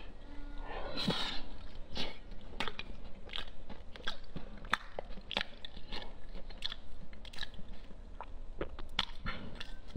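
Close-miked chewing of braised chicken and potatoes: wet mouth clicks and smacks, about two or three a second, irregular.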